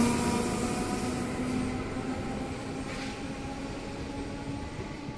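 Departing commuter train of VB2N double-deck coaches hauled by a BB 7600 electric locomotive pulling away, its rolling rumble and steady hum fading as it recedes.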